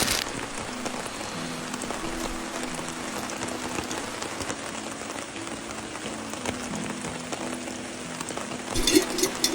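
Steady rain falling on a surface, an even hiss, with faint background music underneath.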